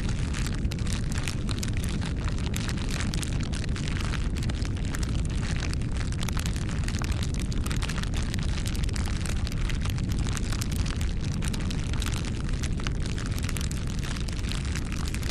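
Wood campfire crackling: frequent sharp pops and snaps over a steady low rumble of burning.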